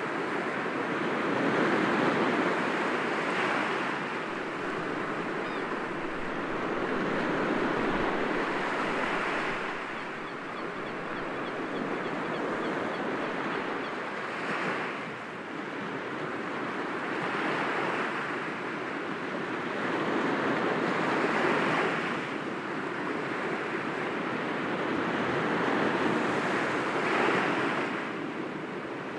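Sea waves breaking gently against rocks: a continuous wash of surf that swells and eases every few seconds.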